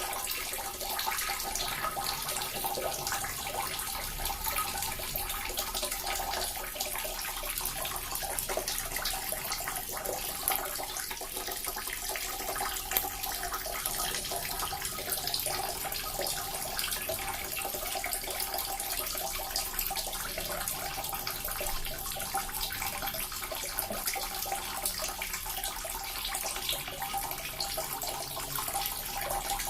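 Small water fountain running steadily, its water trickling and splashing continuously with no pauses.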